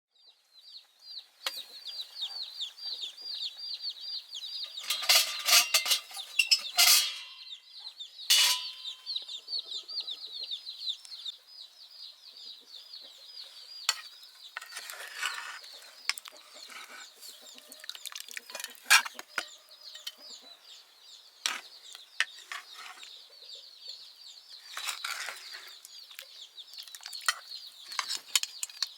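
Chickens: a constant high-pitched cheeping and clucking, broken several times by short loud bursts of flapping or clatter.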